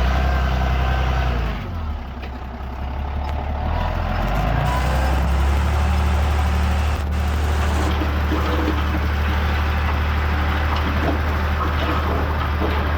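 Diesel engine of heavy earthmoving machinery running with a steady low drone. It eases off about two seconds in and picks up again around five seconds, with faint whines and clatter over it.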